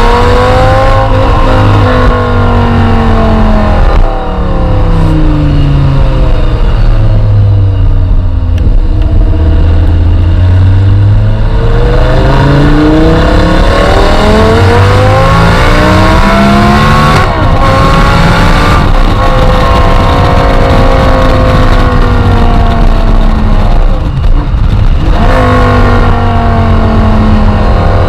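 Audi R8 V10 engine through an ABT aftermarket exhaust, loud throughout. The engine pitch slowly falls, climbs, falls and climbs again as the revs change, with brief sharp breaks about two-thirds of the way through and near the end.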